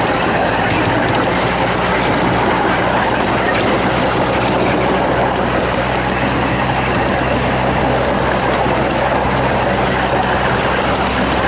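Miniature-railway train rolling along the track, heard from one of its open cars: a steady rushing rumble of the wheels on the rails with faint scattered ticks.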